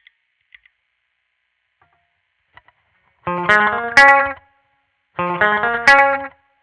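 Squier Vintage Modified Jaguar electric guitar played through an amplifier. A few faint string and pick clicks come first, then about three seconds in two short bursts of strummed chords, each about a second long, with a brief gap between.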